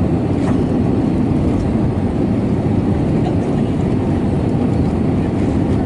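Steady, loud rumble of cabin noise inside an Airbus A320neo airliner, the engines and airflow heard from a window seat.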